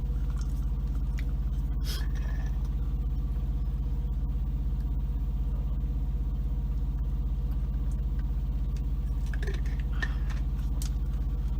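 Semi truck's diesel engine idling steadily, heard from inside the cab as a constant low hum, with a few light clicks about two seconds in and again near the end.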